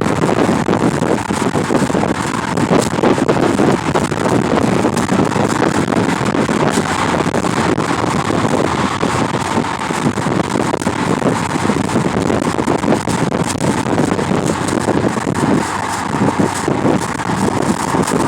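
Wind buffeting a phone microphone from a moving car: a loud, steady, rough rumble with rapid flutter that drowns everything else.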